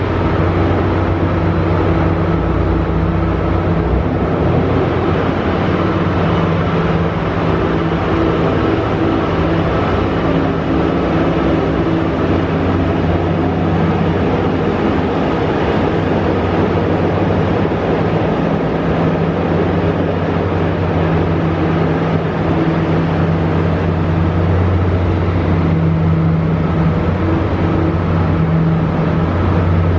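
Diesel engine of an arriving train running steadily, a constant low drone that holds for the whole stretch and swells slightly near the end.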